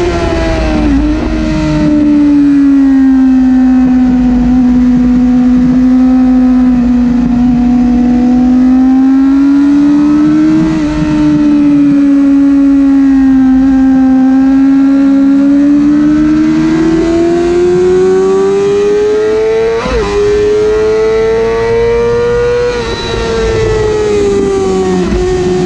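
Yamaha YZF-R6 600 cc inline-four sport-bike engine running hard at high revs under race throttle, heard onboard with wind rushing past. Its pitch dips just after the start and holds fairly level for a long stretch. It then climbs steadily for several seconds as the bike accelerates in gear, and falls away near the end.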